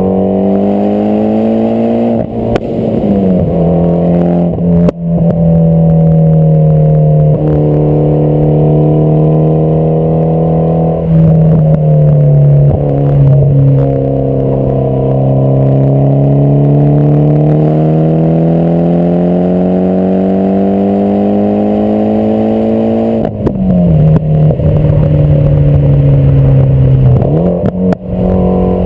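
Mitsubishi Lancer Evolution X's turbocharged four-cylinder running through a catless test pipe and an AMS cat-back exhaust, pulling under load. The pitch climbs slowly and falls several times, dropping sharply a few seconds in and again near the end.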